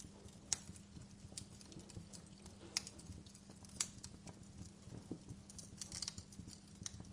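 Wood fire crackling, with irregular sharp pops about once a second over a faint steady hiss; a few pops are louder than the rest.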